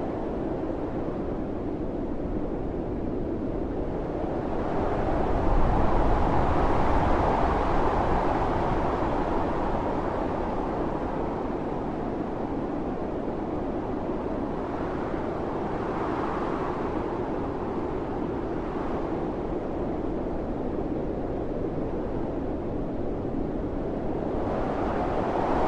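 Howling blizzard wind with blowing snow: steady rushing noise that swells into a stronger gust about five seconds in, eases off, and builds again near the end.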